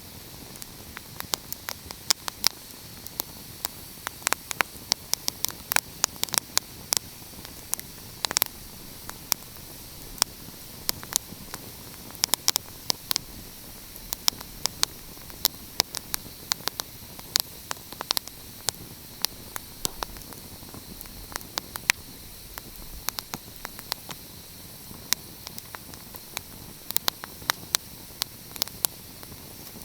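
Wood fire crackling: frequent irregular sharp pops and snaps, several a second, over a steady soft hiss.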